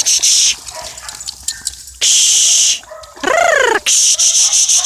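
A dog's high whine, rising and falling in pitch for about half a second, a little after the middle. It comes between loud bursts of high, hissing buzz, each about a second long.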